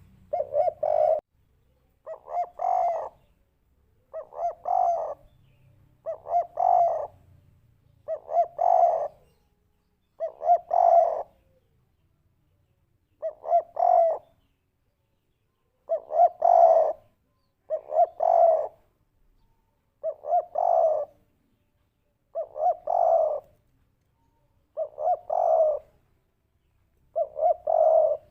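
Spotted dove (derkuku) cooing in the 'kuk 3' style: a phrase of several short coo notes, each phrase a little over a second long, repeated about once every two seconds.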